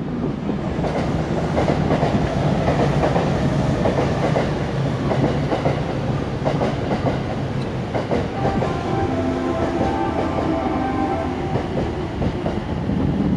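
A train running on rails, its wheels clattering over the rail joints. About eight seconds in, a steady whine of several stacked tones comes in over the noise.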